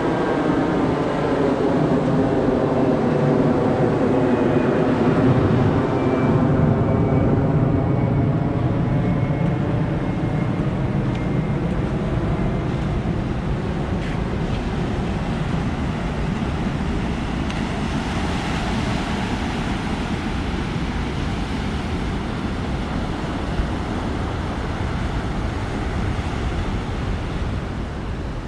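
Aircraft passing low overhead, its engine noise falling in pitch over the first several seconds and then fading into steady surf.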